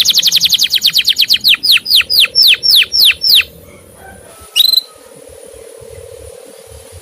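Male canary giving a fast series of high, downward-sliding "cuit" chirps that slow and stop about three and a half seconds in, then one short chirp a second later, over a faint steady hum.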